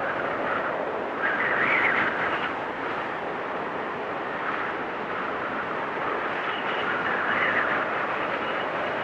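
Storm wind blowing hard and steadily, swelling in a gust about a second in and again near the end, with a faint high whistle.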